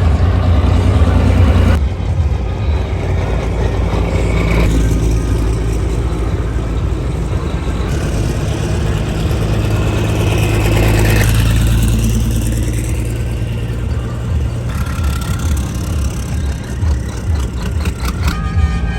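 Racing trucks' diesel engines running, a loud low engine sound that changes abruptly every few seconds.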